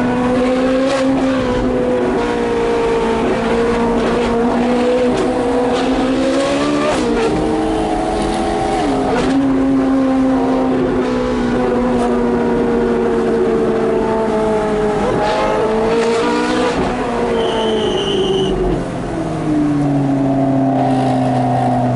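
Ferrari 458 Speciale's V8 with straight-pipe exhaust running at steady mid revs, its pitch shifting briefly several times as it changes gear. The revs drop well down near the end. A short high-pitched squeal comes about three-quarters of the way through.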